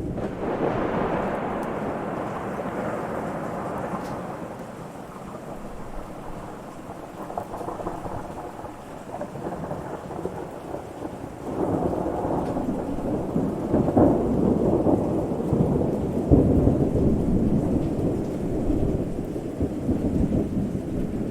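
Thunder rumbling over steady rain: one roll swells at the start and fades over several seconds, then a second, longer roll comes in about halfway through.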